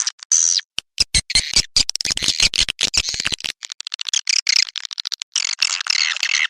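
Recorded swiftlet calls: fast, high chirping twitters broken by rapid trains of sharp clicks, with a dense run of harder clicks from about a second in to about three and a half seconds. A 'call sound' lure played to draw swiftlets into a swiftlet house.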